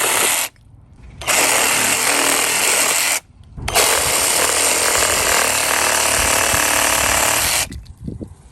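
GardenJoy 21V cordless reciprocating saw running and cutting through stock a little over half an inch thick. It cuts in three runs: it stops briefly about half a second in and again about three seconds in, then stops near the end.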